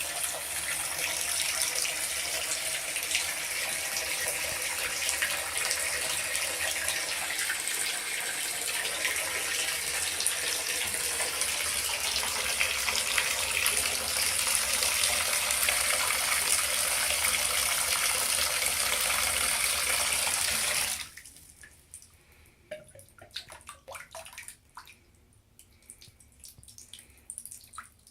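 Water running steadily from a plumbing fixture, shut off abruptly about 21 seconds in, followed by scattered drips.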